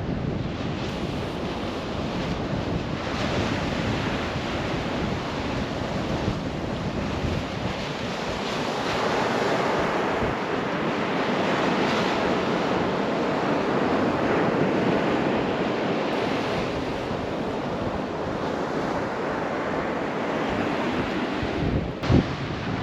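Atlantic surf breaking and washing up the beach, swelling and easing, with wind rumbling on the microphone. A single short thump comes near the end.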